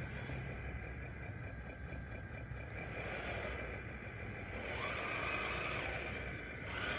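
Wide-track DXR2 RC dozer working, its drive and hydraulics running steadily, with a whine that rises and then falls about two-thirds of the way through.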